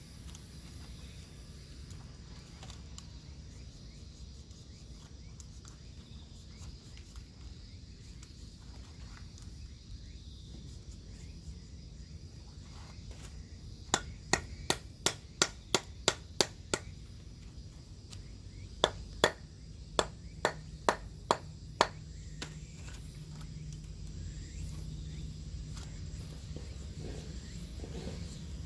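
Two runs of sharp knocking strikes, about three a second: nine strikes, a short pause, then seven more.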